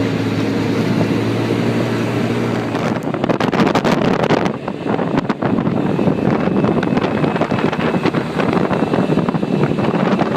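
Four-person ATV engine running steadily, then about three seconds in the sound turns rougher and noisier with rattling and wind buffeting the microphone as the vehicle moves over the trail.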